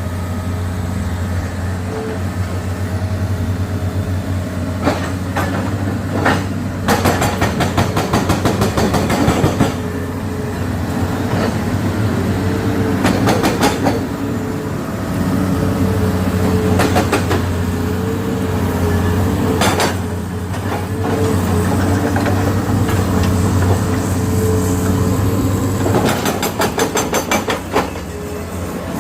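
Heavy earth-moving machinery at work clearing a landslide: a diesel engine runs steadily, with several bursts of rapid, evenly spaced metallic clanking a few seconds long.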